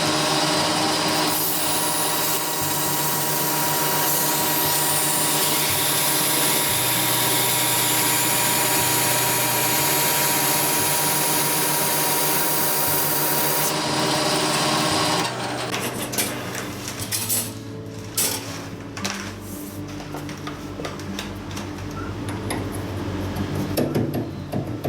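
Lathe running with abrasive rubbed against the spinning drive shaft, sanding it down a hair for a bearing fit, steady for about fifteen seconds. Then the rubbing stops and the lathe runs on more quietly, with scattered clicks and knocks.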